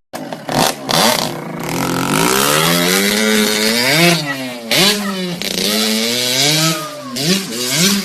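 Motorcycle engine revving, its pitch climbing and dropping again several times, with sharp peaks about four seconds in and near the end.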